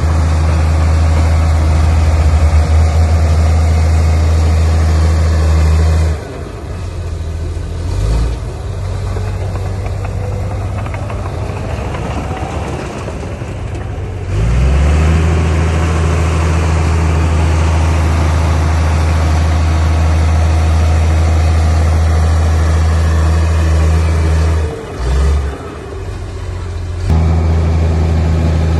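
Heavy construction machine's diesel engine running with a loud, steady low drone over mechanical clatter. The drone drops away abruptly about six seconds in, leaving a lighter engine noise, comes back at full strength around fourteen seconds, then breaks off again briefly near the end.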